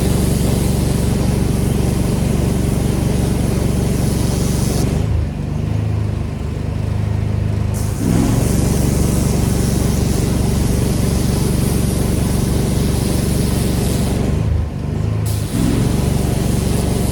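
Gas-engine pressure washer running with the hiss of the high-pressure spray. The spray stops twice, for about three seconds around five seconds in and for about a second near the end, while the engine note changes, then it starts again.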